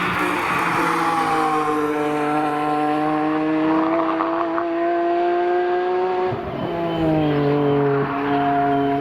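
BMW E46 M3 engine under hard acceleration, its note climbing steadily through a gear. About six and a half seconds in the pitch drops at an upshift, then climbs again.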